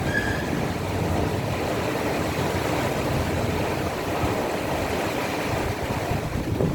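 Heavy thunderstorm rain pouring steadily as an even, unbroken wash of noise.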